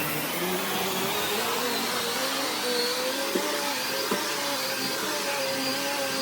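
Shark Navigator upright vacuum cleaner running on carpet, its motor tone wavering up and down in pitch, with two short clicks a little past the middle.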